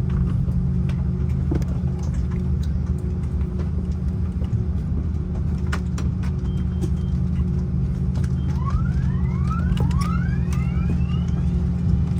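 Steady low drone of an Airbus A330-300 cabin before departure, with scattered small clicks. From about eight and a half seconds in, a few short overlapping whistle-like tones rise in pitch.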